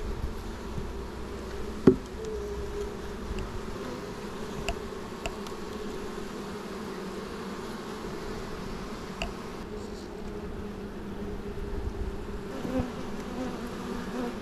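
Honey bees buzzing in a steady hum around an open hive. A sharp knock sounds about two seconds in, with a few faint clicks later.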